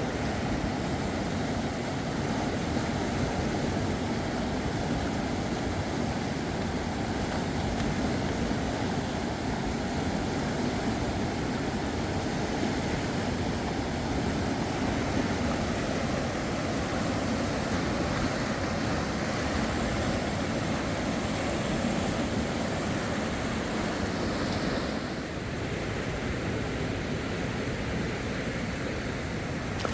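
Steady rush of fast-flowing river water, with wind on the microphone; the level drops slightly about 25 seconds in.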